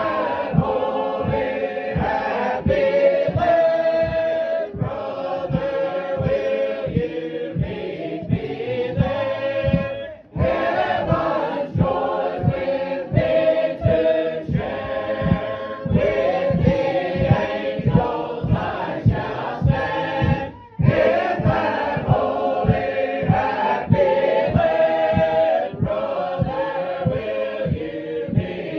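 A group of voices singing a song together in harmony, over a steady low beat about twice a second. The singing breaks off briefly twice, between phrases.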